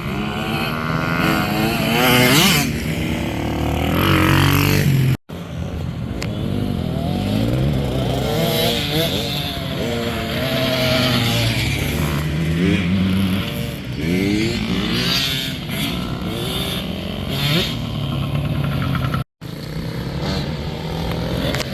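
Dirt bike engines revving as they ride, the pitch climbing and dropping again and again. The sound cuts out suddenly for a moment twice.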